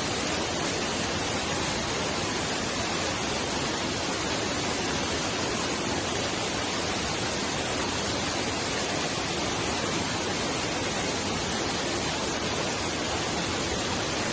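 Mountain stream rushing steadily, a continuous even roar of water.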